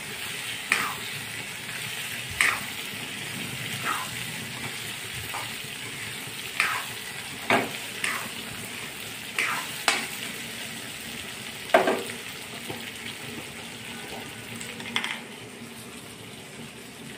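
Vegetables and masoor dal sizzling in hot oil in a metal kadhai while a steel spoon stirs them. Sharp clacks of the spoon striking the pan come every second or so, with the sizzle dying down a little near the end.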